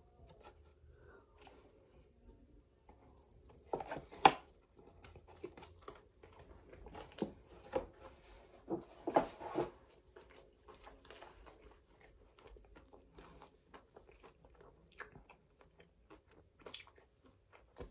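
A person chewing a big mouthful of sauced fried chicken tender, with soft, scattered crunching and mouth noises, a few louder ones about four and nine seconds in.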